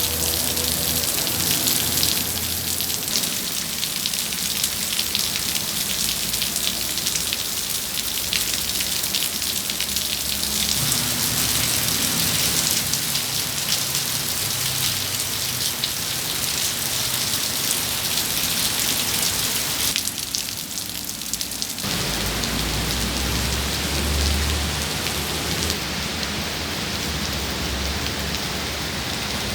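Heavy tropical-storm rain pouring down in a dense, steady hiss of large drops. A low rumble joins about two-thirds of the way through.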